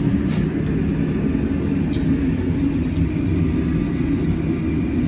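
Blacksmith's forge running with a steady low rumble, with a single sharp click about two seconds in.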